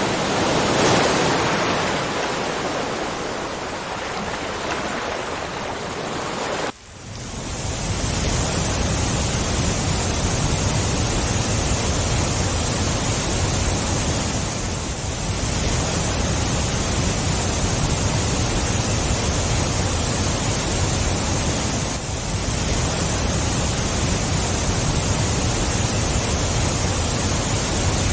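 Waterfall rushing steadily. About seven seconds in, the sound drops out for a moment and comes back as a deeper, fuller roar of falling water.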